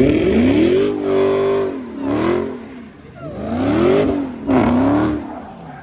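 Car engine revving hard several times, its pitch climbing and dropping in repeated swells.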